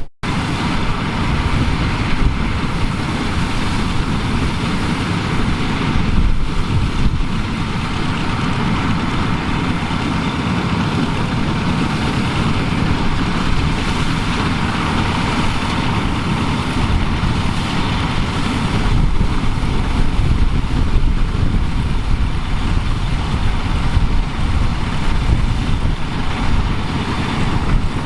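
The engine of vintage harvest machinery, a tractor or combine, running steadily.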